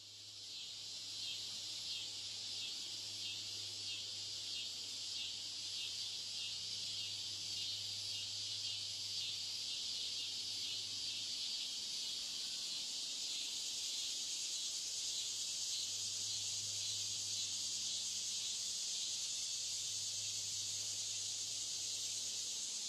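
Steady chorus of crickets chirping in a fast, even trill, with a faint low hum underneath.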